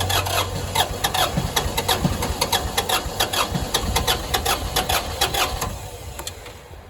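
1997 Massey Ferguson tractor's three-cylinder diesel being cranked by its starter in the cold after glowing, turning over in an even rhythm of about four to five beats a second without catching. The cranking stops about a second before the end.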